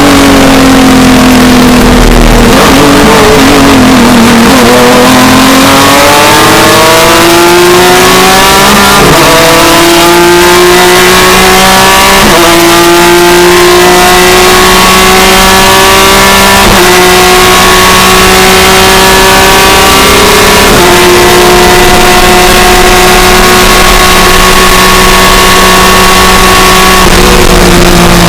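BMW E36 M3 race car's six-cylinder engine heard from inside the cockpit, loud. It slows at first, then pulls hard through the gears with a short drop in pitch at each upshift, and the revs fall away again near the end.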